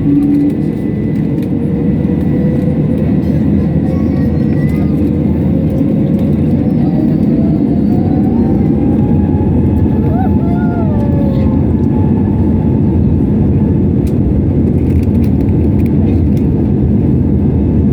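Airbus A320neo jet engines running: a loud, steady rumble with faint tones that slowly rise in pitch over several seconds.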